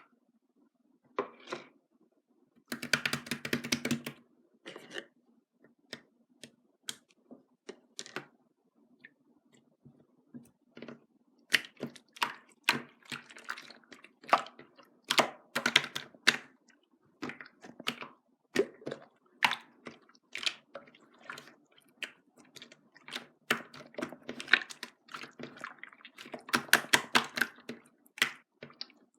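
Irregular light clicks and taps, with two short flurries of rapid clicking, one about three seconds in and one near the end.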